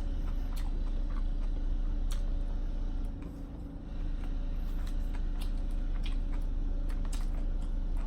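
Steady low mechanical rumble of building work elsewhere in the building, the loud noise that no notice was put up for; it stops briefly about three seconds in, then resumes. A few faint clicks of eating utensils sound over it.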